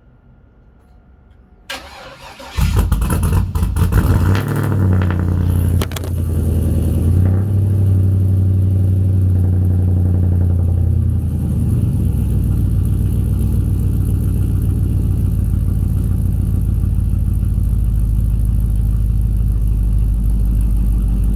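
A 4.8-litre V8 with an LS7 camshaft cold-starting: the starter cranks briefly about two seconds in, the engine catches and flares, then holds a high cold fast idle. About halfway through the idle drops lower and runs on steadily.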